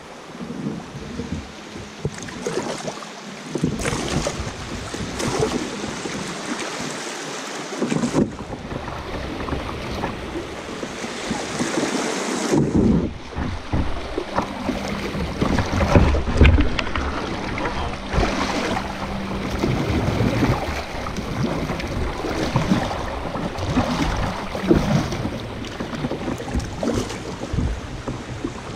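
Kayak paddling on a river: paddle strokes splashing and water washing, with wind buffeting the microphone. The sound changes abruptly about eight seconds and again about twelve seconds in.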